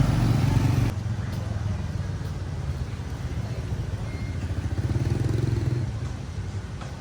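Motorbike engine running. It drops off sharply about a second in, swells again around five seconds, then fades.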